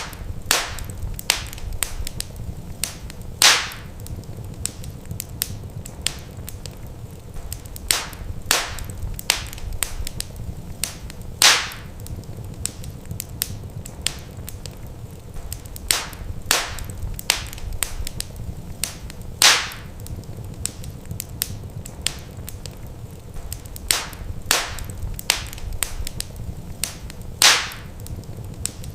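Wood fire crackling in a fireplace: irregular sharp pops and snaps of burning logs over a steady low rumble, with a louder pop about every eight seconds.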